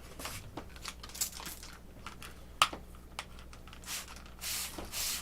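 Handling noise with small clicks and crinkles, then from about four seconds in a cloth rubbing back and forth over the RC airplane's surface in quick strokes, about two a second, wiping off dust.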